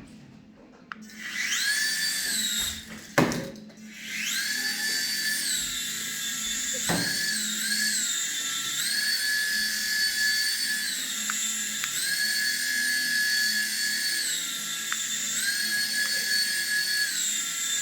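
Toy remote-control helicopter's small electric rotor motor whining high as it spins up about a second in. There is a sharp knock about three seconds in, then it spins up again and runs on, its pitch stepping up and down as the throttle changes.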